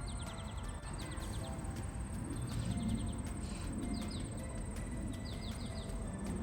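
A bird singing in short runs of three to five quick falling chirps, repeated every second or so, over a steady high insect trill and a low rumble.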